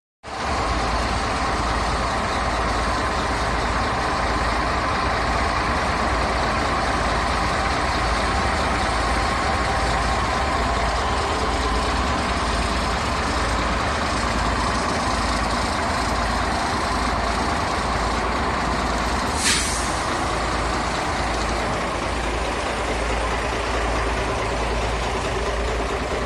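MAN F2000 19.422 truck's diesel engine running steadily. About two-thirds of the way through, a short sharp hiss of compressed air, like an air brake releasing.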